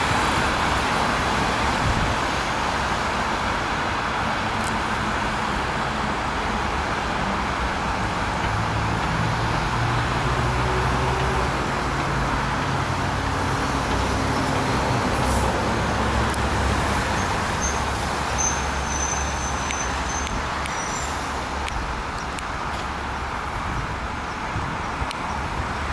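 Passenger train rolling past at speed: a steady rumble and rush of wheels on rail that eases slightly near the end.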